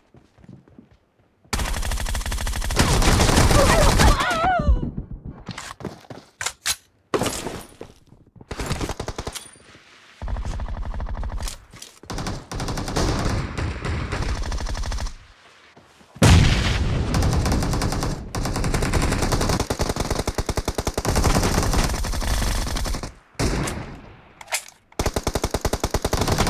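Automatic gunfire in a shooter video game: long bursts of rapid shots with short pauses between them.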